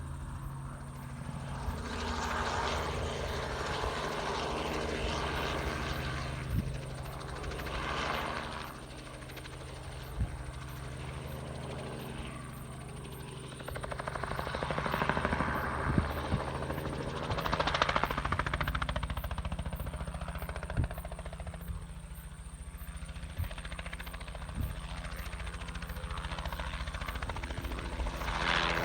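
An engine running steadily, with a hiss that swells and fades every few seconds and an occasional faint knock.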